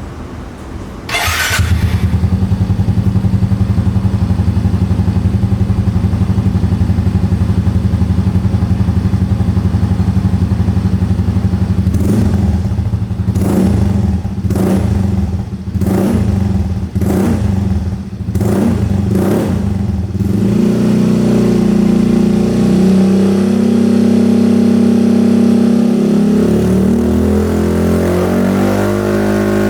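Yamaha QBIX scooter's single-cylinder engine running through a Yoshimura Tri-Cone carbon full-system exhaust. It starts up about a second in and idles with a steady beat. From about halfway it gives a series of about eight quick throttle blips, then is held at higher revs and revs up again near the end.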